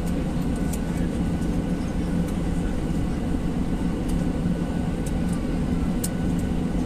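Steady airliner cabin noise from engines and airflow during the approach to landing: an even rush with a low, constant hum underneath.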